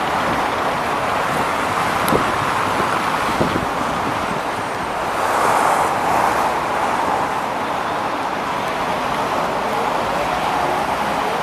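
Scania OmniLink CL94UB city bus on the move: steady engine and road noise with a couple of brief clicks or rattles, a swell a little past the middle, and a faint rising engine note near the end as it picks up speed.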